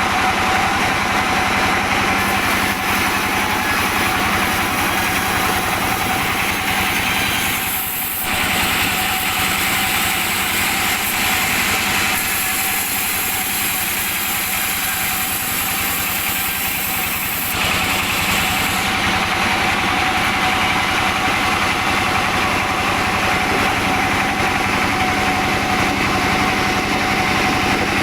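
Sawmill machinery running steadily, an engine-driven saw working through albasia wood. The high-pitched hiss dips about eight seconds in, grows stronger from about twelve seconds and changes again about eighteen seconds in, over a constant engine hum.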